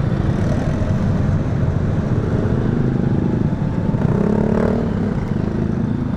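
Motorcycle engine running in slow, heavy traffic, with the engines of surrounding vehicles rising and falling around it.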